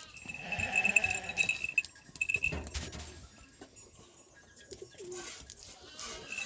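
A bird chirping a quick run of high, evenly repeated notes for the first two and a half seconds, then stopping.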